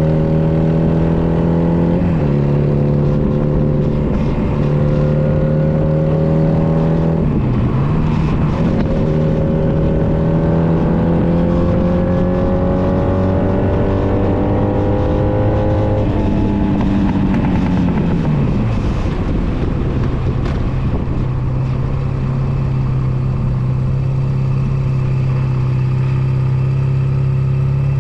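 Honda Nighthawk 250's air-cooled parallel-twin engine pulling through the gears, its pitch climbing with short dips at each shift. About two-thirds of the way in the pitch falls as the bike slows, and then the engine holds a steady lower note.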